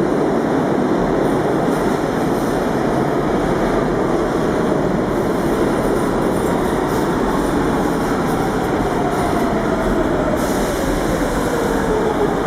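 An R46 subway train running through the station with a loud, steady rumble of wheels and motors. Over the last few seconds a whine falls steadily in pitch.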